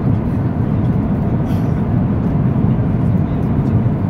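Steady low rumble inside the passenger cabin of a Boeing 737 airliner in motion: engine and airflow noise at an even level.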